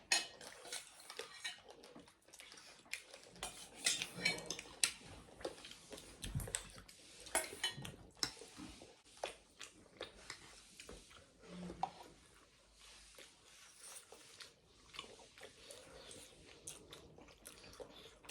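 Eating at a table: scattered light clinks and taps of cutlery on dishes, with chewing.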